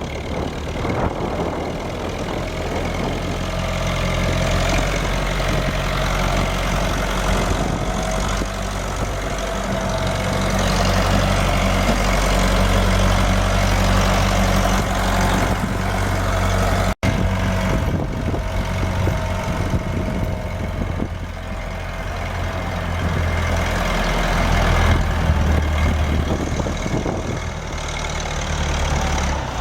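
Tractor engine running steadily, with a momentary gap about halfway through.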